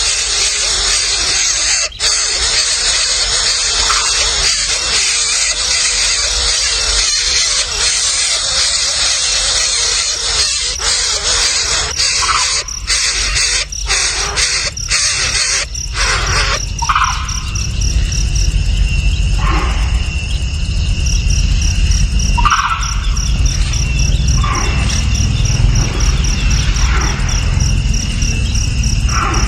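Insects trilling steadily with short bird chirps every few seconds. The sound changes abruptly about halfway through, from a dense hiss to a clearer pulsing trill over a low rumble.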